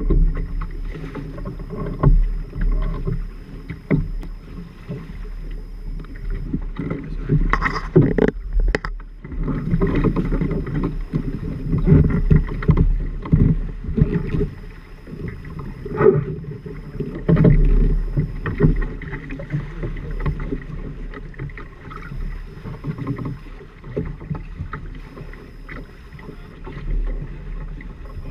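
Water sloshing and slapping against a sailing trimaran's hulls while under way, in irregular surges with low thuds every second or two.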